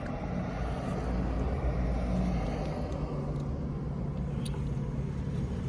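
Steady low rumble of a car engine idling, with a faint steady hum and a few faint ticks.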